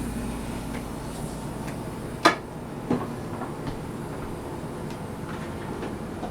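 A dishwasher being slid across the floor into its cabinet opening: a steady low rumble with small scattered clicks and a sharp knock about two seconds in, then a lighter one.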